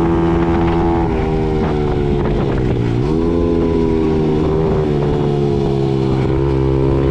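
Mini dirt bike engine running steadily under way. About three seconds in the revs drop and then hold steady at a lower pitch.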